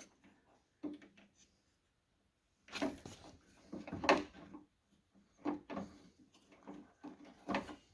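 Scattered clicks, knocks and light rattles of a car door's inner parts being handled as the door-handle lock rod is slid into place.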